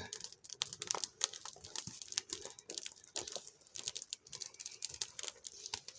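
Campfire burning dry deadwood, crackling and snapping in many irregular sharp clicks.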